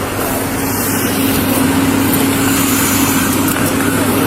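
Steady engine hum of an idling vehicle, a constant low drone with one held tone, getting slightly louder about a second in.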